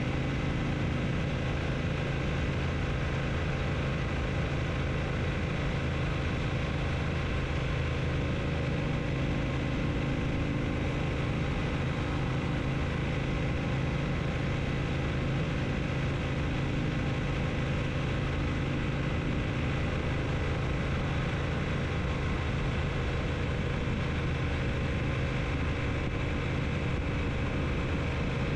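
Triumph T120 parallel-twin motorcycle engine running steadily at one unchanging engine speed.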